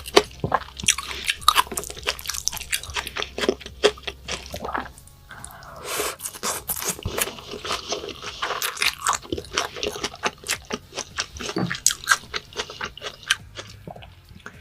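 A person chewing food close to the microphone: rapid, irregular wet crunching and smacking bites.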